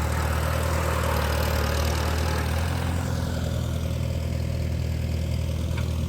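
Tractor engine idling with a steady low hum, along with a higher, rushing engine noise that fades out about halfway through.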